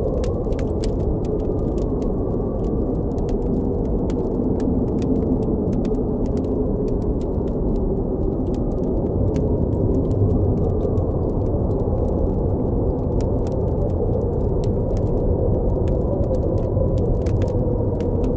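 Blizzard wind blowing steadily with a low rumbling rush and a faint wavering howl, mixed with a campfire crackling in scattered sharp pops.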